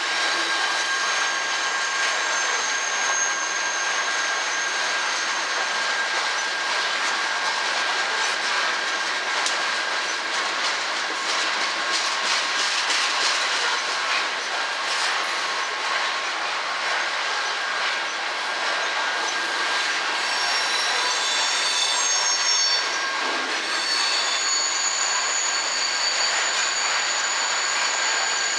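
Coal train hopper cars rolling past on steel wheels: a steady rush of wheel and rail noise with high, thin wheel squeal tones. A run of clicks sounds over the rail joints in the middle.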